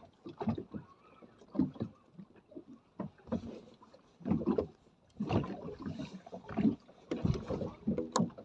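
Choppy sea slapping against the hull of a small speedboat drifting with its engine off, in irregular splashes about once a second.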